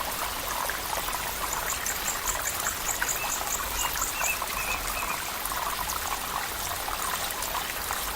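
A stream of water flowing and trickling steadily. A brief run of high, evenly spaced chirps, about four a second, sounds from about a second and a half in to about four seconds in.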